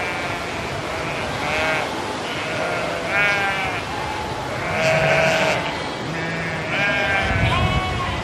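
A flock of sheep bleating, several animals calling at different pitches with overlapping bleats every second or so. The loudest bleat comes about five seconds in.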